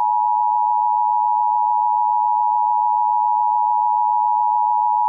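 Emergency Alert System attention signal: a loud, steady two-note tone that begins abruptly, sounding the alarm for a severe thunderstorm warning.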